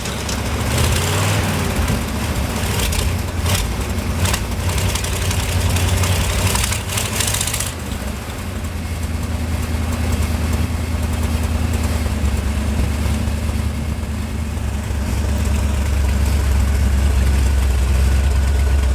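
1971 International 1890 truck's gasoline engine running on its freshly rebuilt carburettor: it revs up briefly near the start, then settles into a steady idle. A hiss and a few knocks sound over it during the first half.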